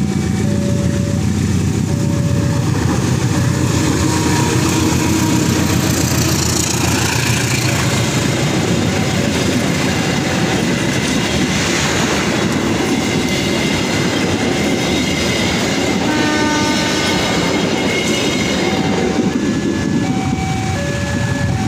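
A passenger train hauled by a BB 203 diesel-electric locomotive passes over a level crossing with steady wheel-on-rail noise, while the crossing alarm keeps sounding its repeating alternating two-tone chime. A brief horn sounds about two-thirds of the way through.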